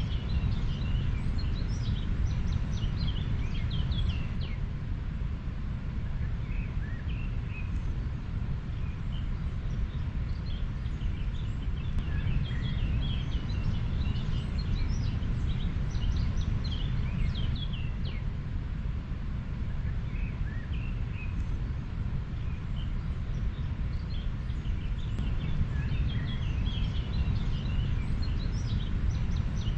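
A river flowing: a steady low rush of water, with small birds chirping and twittering on and off over it, most busily near the start, in the middle and near the end.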